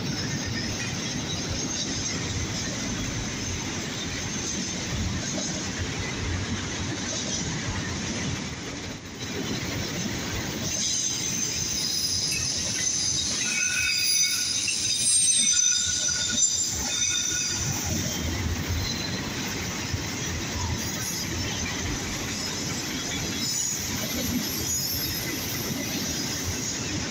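Railroad cars rolling past with a steady rumble and rail noise. From about 11 s to 17 s, wheel squeal rings out in several thin, high steady tones.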